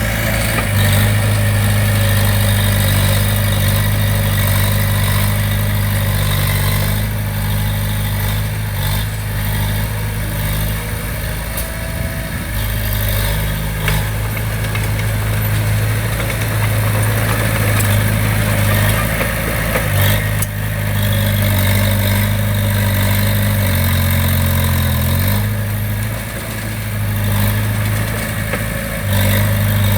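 Diesel engine of heavy construction equipment running steadily under a constant low note. About three quarters of the way through, the note shifts and the sound dips briefly before returning.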